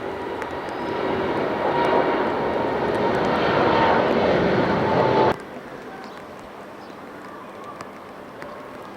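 Jet engines of a departing Boeing 787-9 Dreamliner, growing louder for about five seconds, then cut off abruptly, leaving a quieter outdoor background.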